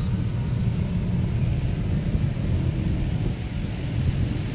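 Low, steady rumble of a passenger train moving away along the track.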